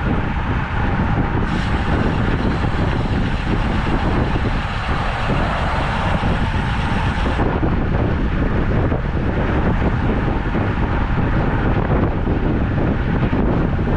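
Wind rushing over the microphone of a camera on a moving road bike, a steady low rumble with road noise. From about a second and a half in to about seven and a half seconds there is an added higher hiss, which then stops suddenly.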